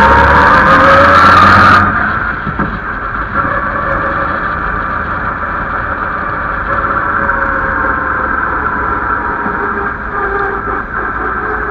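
Onboard sound of the 1927 Bentley 'Old Mother Gun' race car's engine, heard from the bonnet. It accelerates with a rising pitch for about two seconds. The sound then drops suddenly and the engine runs on at a lower, steadier pitch.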